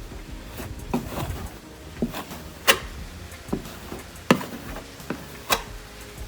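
Body filler being spread thin on a plastic car bumper, most likely with a spreader: a series of irregular sharp clicks and light scrapes, about one every second or less.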